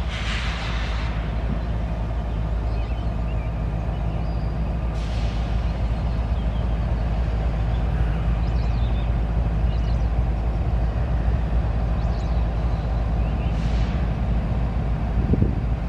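CSX freight train rolling past: a steady low rumble with a droning engine hum, broken by a few brief hisses.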